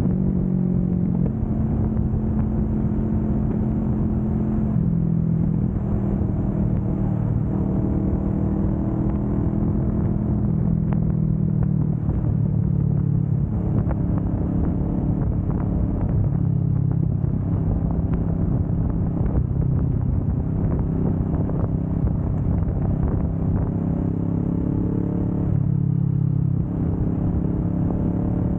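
2025 Kawasaki Vulcan S 650's parallel-twin engine running under way at road speed. Its pitch steps down and back up several times as the revs change, around 5 s, 12 s and 26 s in.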